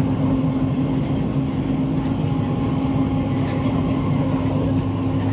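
Cabin noise inside a Siemens-built SMRT C651 train carriage running at a steady speed: a continuous low rumble with a steady hum that holds one pitch throughout.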